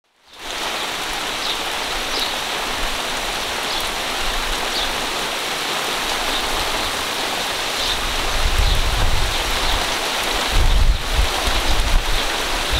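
Monsoon rain shower falling steadily on leaves and grass, a constant even hiss. In the last third, gusts of wind buffet the microphone with irregular low rumbles.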